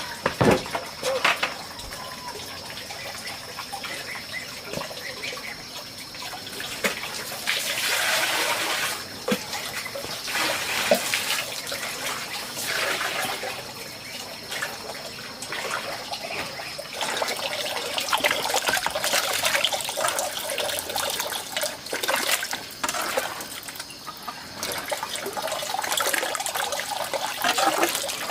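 Water splashing and running in irregular swells, as in hands working in water.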